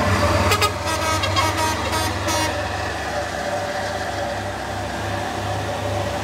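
Heavy diesel truck engine labouring in a low, pulsing drone, with a quick series of short, sharp bursts over the first two seconds or so.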